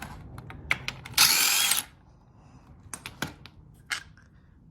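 A power tool runs in one short burst of about half a second, a little over a second in, loosening a 17 mm bolt on the engine. Sharp metallic clicks and knocks of tool and socket handling come before and after it.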